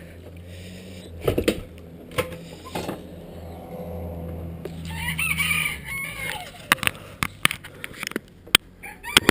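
A rooster crows once about five seconds in, among scattered sharp knocks and clanks, which are the loudest sounds; a steady low hum runs under the first six seconds.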